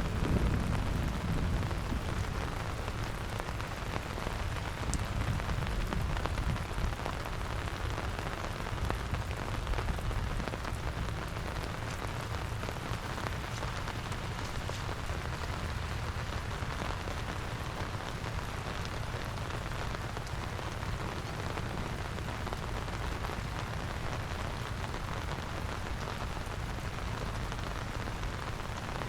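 Steady rain falling, a constant hiss of many fine drop ticks over a low rumble, a little louder in the first few seconds.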